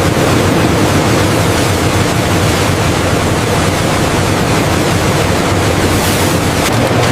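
Steady rushing wind and sea noise over a low, even engine hum from a fishing trawler.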